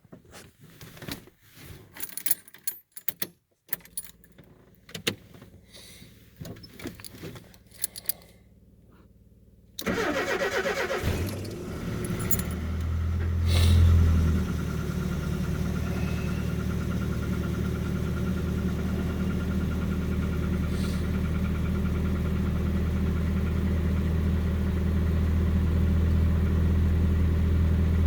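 Nissan 720 pickup engine cold start. For about eight seconds there are scattered clicks and rattles, then a short pause. The starter cranks for a second or two, the engine catches, revs up briefly, and settles into a steady idle.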